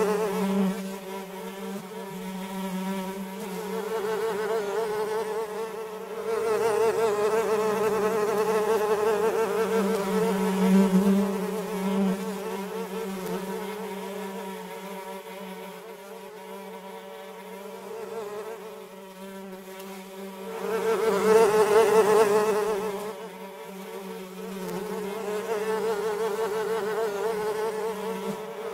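Fly buzzing in flight: a steady, pitched drone that swells and fades several times as it comes and goes, loudest about three-quarters of the way through.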